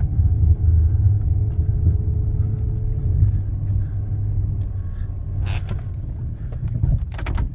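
Plow truck's engine running under load as it pushes a blade through deep snow, a steady low rumble, with a few short louder noises about five and a half seconds in and near the end.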